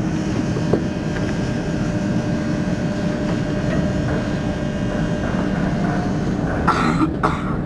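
Düsseldorf SkyTrain suspended monorail car in motion, heard from on board: a steady rumble with a faint steady whine. About seven seconds in come two short, sharp, louder sounds close together.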